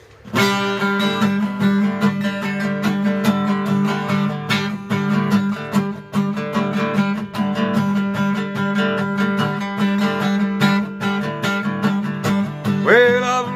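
Acoustic guitar strummed in a steady rhythm as a song's intro, with a singing voice coming in near the end.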